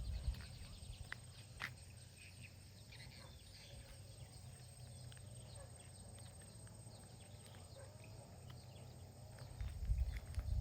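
Quiet outdoor ambience with faint, scattered bird chirps, and low rumbles of wind buffeting the microphone near the start and again near the end.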